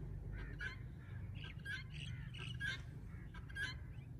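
Birds calling in short, repeated notes, about one a second, over a steady low hum.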